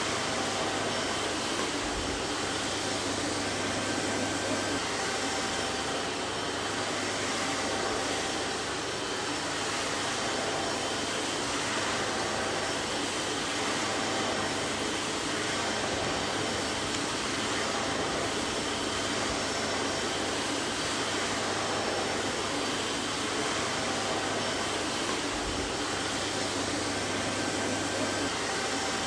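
Vacuum cleaner running steadily: an even whooshing rush of air with a faint motor whine, unchanging throughout.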